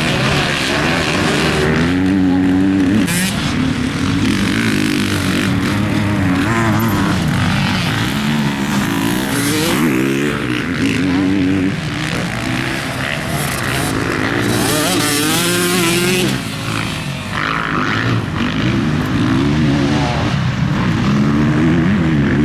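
Motocross bike engine being ridden hard, revving up and backing off over and over, its pitch climbing and dropping every second or two.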